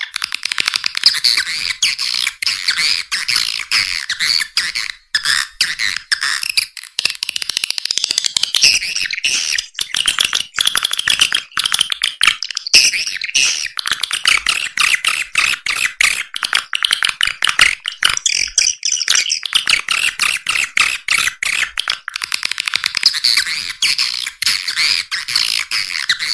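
Swiftlet lure call used to draw swiftlets into a nest house: dense, continuous high-pitched twittering and chirping of many swiftlets, with no low end at all.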